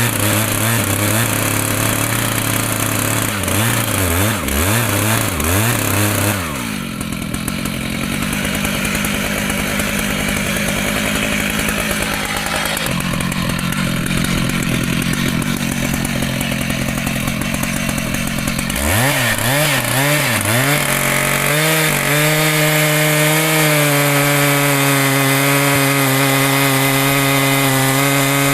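Two-stroke chainsaw cutting mahogany. The engine revs up and down for the first few seconds, drops to a lower, steady pitch under load through the cut from about six to nineteen seconds in, then revs freely again and holds steady at high revs near the end.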